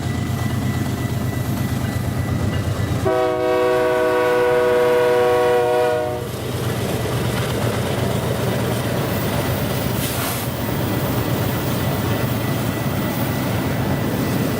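Diesel freight locomotives working hard upgrade, a steady low drone. About three seconds in, one air horn blast sounds as a chord and is held for about three seconds before cutting off; the engines keep running after it.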